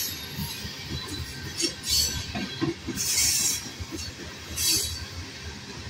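Kansas City Southern covered hopper cars of a freight train rolling past close by: a steady rumble of wheels on the rails with irregular knocks, and several brief bursts of high hissing noise.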